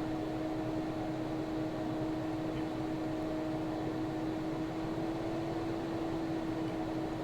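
Hot air gun of a soldering rework station blowing steadily, a fan-driven rush of air with a steady hum, as the iPad's glass edge is heated to soften the adhesive.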